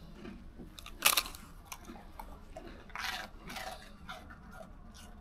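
Chewing and crunching close to the microphone, with a sharp crunch about a second in and more crunching around three seconds in.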